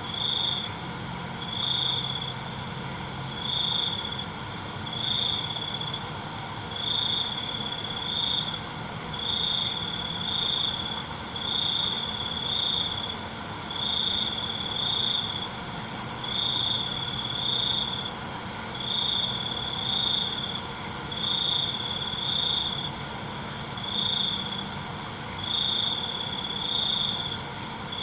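Night crickets chirping: one loud cricket repeats a short chirp about every second and a half over a dense, steady high-pitched trill from many other insects.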